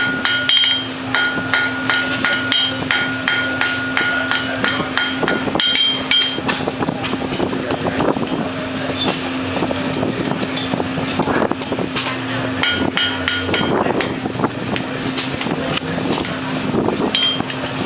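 Blacksmith's hammer striking hot metal on an anvil: a quick run of ringing blows, about four a second, for the first six seconds or so, then fewer, scattered strikes. A steady low hum lies underneath.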